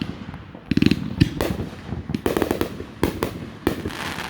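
Fireworks going off: a rapid, irregular series of sharp bangs and crackles, several in quick clusters.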